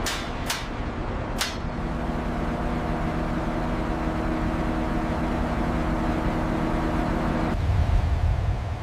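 Aircraft launch from the carrier's electromagnetic catapult (EMALS): a steady rushing noise carries a hum of several steady tones that cuts off suddenly about seven and a half seconds in, followed by a low rumble. Two sharp clicks come in the first second and a half.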